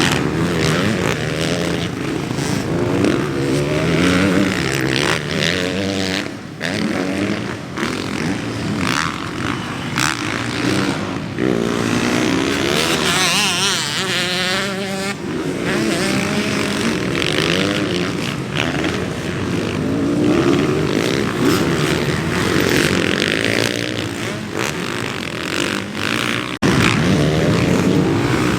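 Dirt bike engines revving, the pitch climbing and dropping over and over as they shift. The sound cuts abruptly once, near the end.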